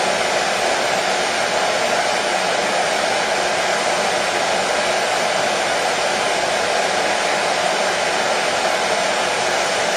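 Hair dryer running steadily: a constant, even rush of blowing air and motor noise with no change in speed.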